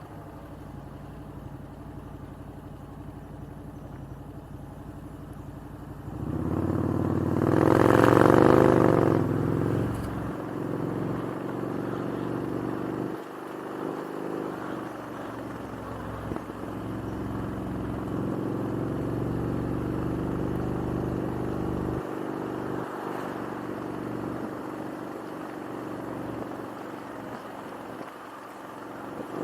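Motorcycle engine running under way. A louder swell of engine and road noise builds about six seconds in and peaks around eight seconds, with the pitch wavering, then fades back to steady running.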